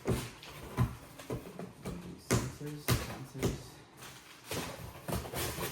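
Packaging being handled and opened during an unboxing: a string of short crinkles, taps and knocks from plastic bags and boxes, with a brief spoken word partway through.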